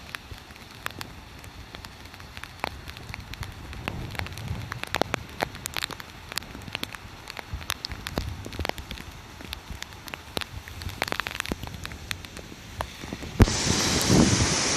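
Rain pattering, with many sharp ticks of drops striking close by over a faint rushing background. Near the end a much louder rushing noise comes in suddenly, with heavy low buffeting.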